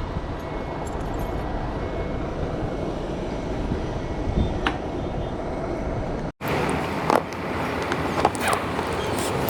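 Steady mechanical rumble of a running vehicle engine. About six seconds in it cuts off abruptly and gives way to a lighter steady background with a few sharp clicks and knocks.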